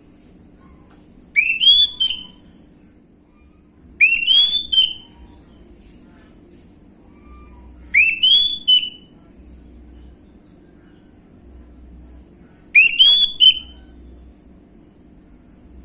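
Orange-headed thrush (anis merah) singing in the gamblingan style: four short, loud whistled phrases of a few quick up-slurred notes each, spaced about four seconds apart.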